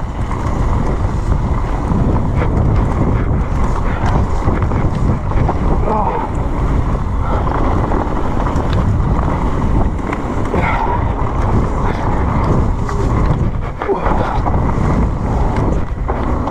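Steady loud rush of wind buffeting the microphone as a mountain bike descends a wet trail at speed, with the rumble of the ride underneath.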